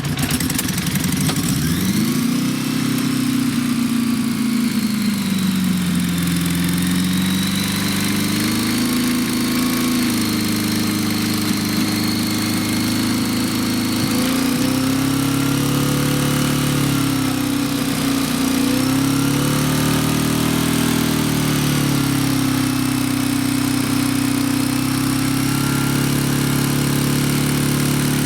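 A 1976 Honda Goldwing GL1000's flat-four engine running on choke while it warms up from a cold start, through its newly fitted exhaust pipes and muffler. The engine speed rises about two seconds in, wavers up and down for a while, then settles to a steady idle.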